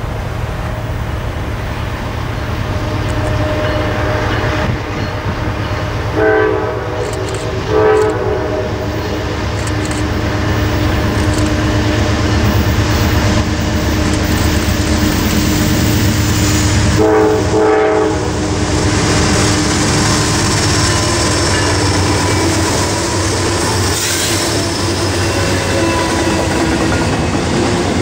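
Norfolk Southern diesel freight locomotives running past with a steady engine rumble. A locomotive horn sounds twice between about six and eight seconds in and once more around seventeen seconds. Double-stack intermodal cars are clattering along the rails near the end.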